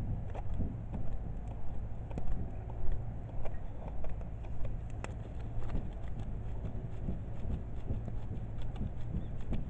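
Wood fire burning in a kamado hearth, crackling with irregular sharp pops over a low, steady rumble.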